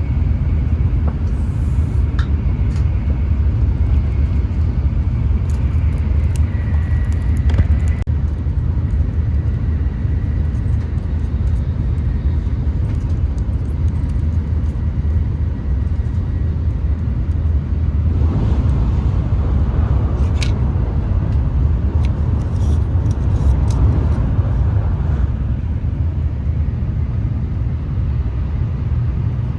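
Steady low rumble of a Shinkansen bullet train running at speed, heard inside the passenger cabin, with a few faint clicks.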